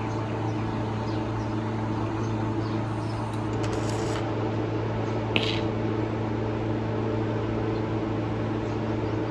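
Toyota Premio's 1ZZ inline-four engine running steadily at idle, with a short sharp click about five seconds in.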